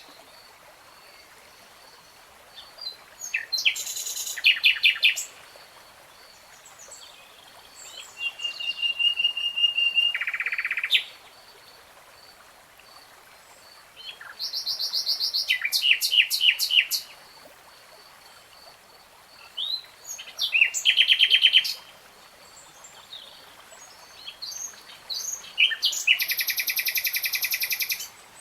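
Nightingale singing in separate phrases about every five seconds, five in all. Each phrase is a run of fast repeated notes, and one is a long held whistle that drops into a lower rattle. A faint, high, steady pulsing runs underneath.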